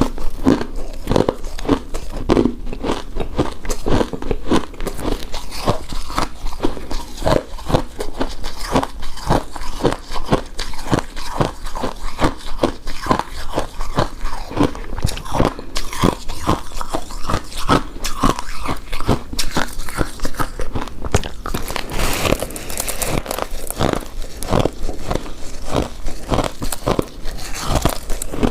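Close-miked mouth sounds of someone chewing a soft, sticky coconut-coated rice cake: a dense run of rapid wet clicks and smacks. About three quarters of the way through, a brief stretch of brighter rustling joins in.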